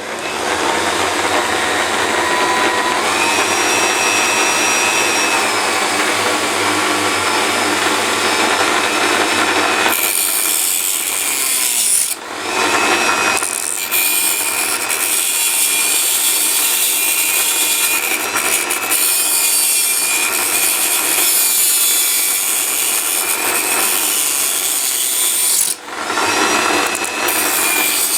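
Dremel rotary tool on a flexible-shaft extension cutting through model railway track rails: a steady high whine over a grinding hiss. It dips briefly about twelve seconds in and again near the end, between cuts.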